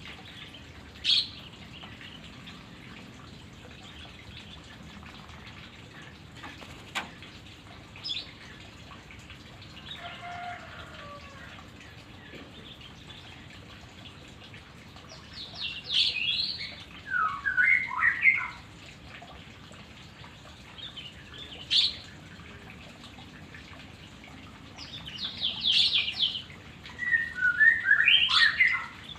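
White-rumped shama (murai batu) singing in separate phrases of quick chirps and whistles with pauses between them: short calls at first, then longer, busier runs about halfway through and near the end.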